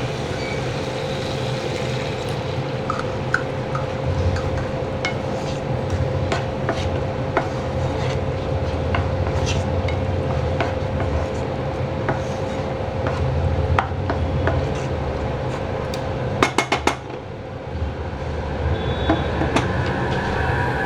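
A spatula scraping and tapping against a pan while a cornflour-and-water slurry is stirred into a stir-fry gravy. Irregular clicks come over a steady low hum, with a quick cluster of knocks a few seconds before the end.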